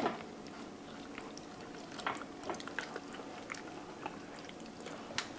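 Faint wet squishing and small clicks as marinade is worked by hand under the skin of a raw whole chicken, with a few sharper ticks about two seconds in and near the end.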